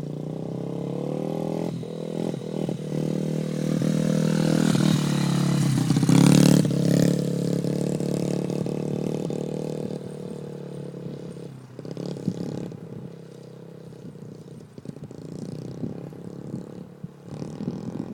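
Dirt bike riding up and past, its engine growing louder to a peak about six seconds in, then fading as it moves away.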